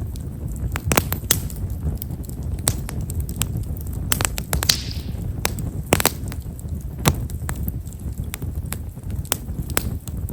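Campfire of Japanese stewartia (himeshara) firewood crackling with frequent small, sharp pops scattered irregularly over the low rumble of the flames. The crackle is fine and quiet, typical of this wood. About halfway through there is a brief hiss.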